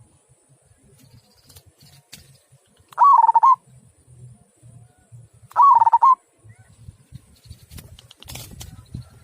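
Zebra dove (perkutut) cooing: two short "kung" coos about two and a half seconds apart, each a quick rise that then holds one pitch. A faint low rumble runs underneath, with a brief clatter near the end.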